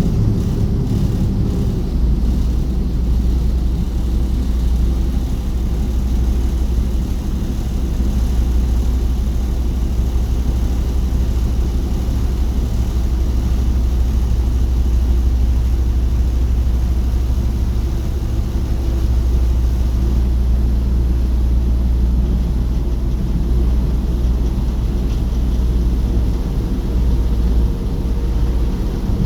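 Ferry's engine running steadily, a low continuous drone with some hull and water noise.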